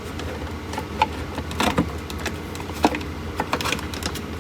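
Scattered clicks and light knocks of hand tools and metal parts as a water heater power vent fan is taken apart, over a steady low hum.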